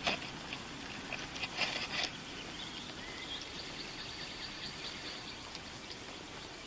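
Faint outdoor ambience: a steady hiss with a high, thin insect drone held for about two seconds midway, and a few light knocks in the first two seconds.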